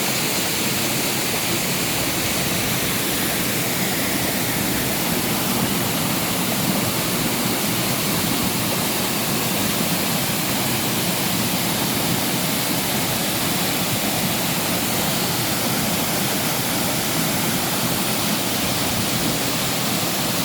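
Waterfall on a stream pouring steadily, a loud constant rush of falling water; the stream is running high and strong.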